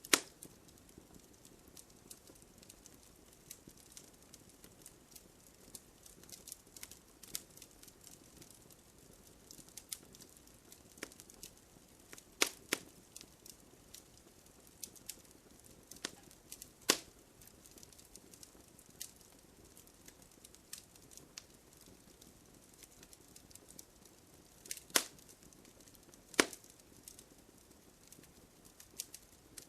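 Campfire of burning wood crackling, with irregular sharp pops and snaps over a faint low hiss of flames; a few louder pops stand out, one right at the start and others scattered through.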